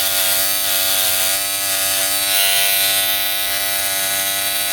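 Electric hair clipper running with a steady buzz, its freshly sharpened blade set being test-cut and cutting well.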